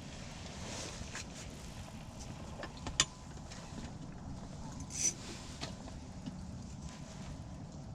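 Wind buffeting the microphone as a steady low rumble. A single sharp click about three seconds in and a brief rustle about five seconds in, from handling close to the microphone.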